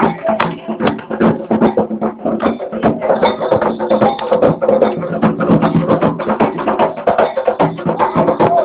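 Live percussion music: rapid, steady drumming with sharp clacking strikes over a sustained layer of pitched sound, likely voices singing together.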